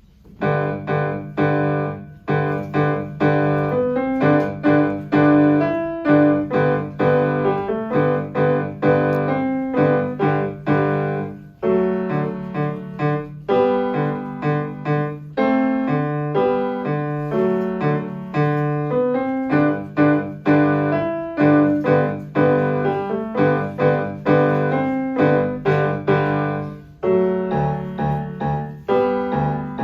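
Solo piano playing a rhythmic, exotic-flavoured piece: chords and melody notes struck over a repeating bass pattern. It starts abruptly right at the beginning.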